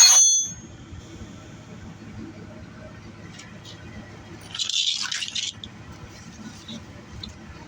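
Hand tools on the truck's steering parts: one sharp metal strike that rings for about a second, then about five seconds in a second, noisier stretch of metal scraping and rattling, with a few light ticks after.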